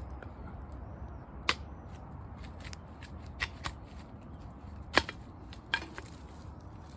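A few sharp, separate clicks and knocks, about five, the loudest about five seconds in, over a low steady rumble.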